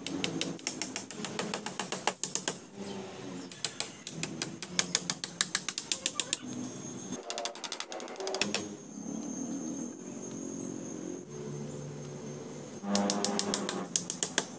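Fast, sharp mechanical clicking, about seven clicks a second, in three runs: one at the start, one in the middle and a shorter one near the end.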